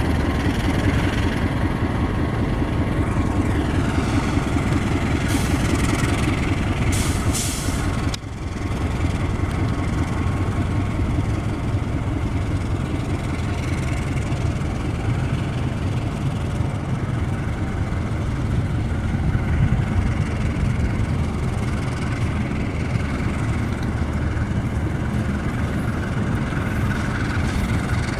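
Diesel locomotive engine running steadily, with short hissing bursts about six to seven seconds in.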